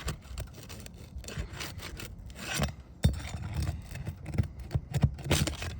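Steel roofing flat bar scraping and prying under asphalt shingle tabs, breaking the sealant strips that bond them, in irregular rasping strokes. There is a sharp knock about three seconds in and a run of louder strokes near the end.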